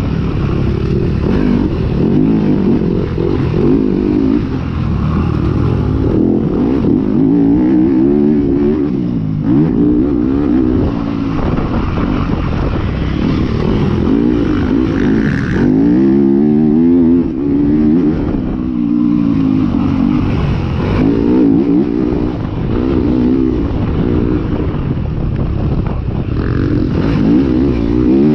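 Motocross bikes racing on a dirt track, their engines revving up and falling back over and over as the riders work the throttle through turns and jumps, several engines overlapping.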